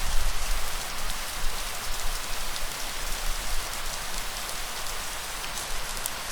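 Light rain falling steadily, with individual drops ticking on a surface over an even hiss, and a low rumble underneath.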